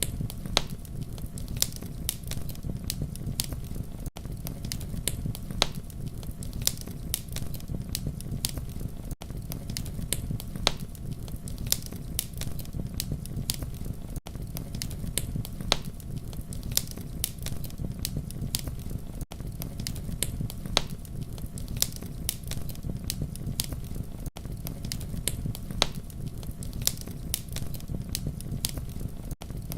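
Campfire burning with a steady low rumble and frequent sharp crackles and pops of burning wood. The sound drops out for an instant about every five seconds.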